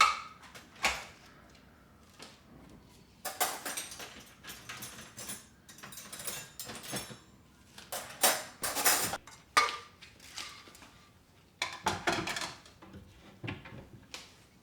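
Dishes and kitchen items being handled and set down: scattered clinks and knocks, with a few longer stretches of handling noise.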